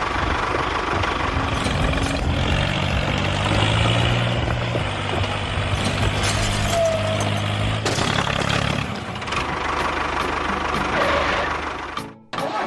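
Engine-like running noise of a miniature vehicle, continuous and fairly steady, with a deeper hum from about two seconds in until about nine seconds in. It drops out abruptly for a moment near the end.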